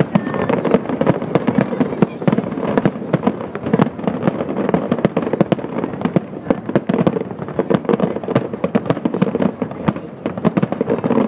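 A fireworks display at full pace: aerial shells bursting in a dense barrage, many sharp bangs a second with almost no let-up, easing slightly near the end.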